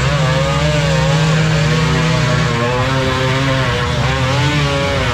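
Several motocross bike engines running together, their pitches overlapping and rising and falling as the riders rev and ease off.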